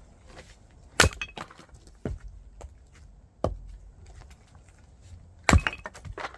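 Firewood being split: four sharp strikes with cracking and splintering of wood, the loudest about a second in and another near the end.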